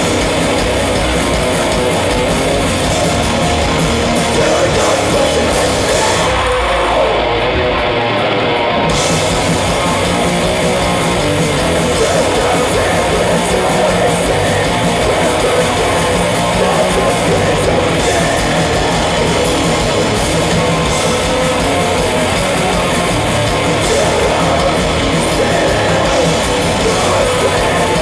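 Heavy metal band playing loudly live: distorted electric guitar, bass and drums.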